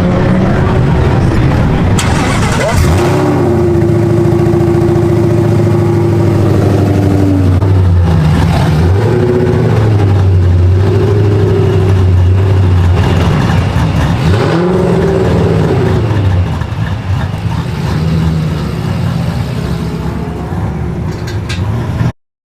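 S197 Mustang drift car's engine running hard, its pitch climbing and dropping again and again as the throttle is worked through the drift. The sound cuts off suddenly near the end.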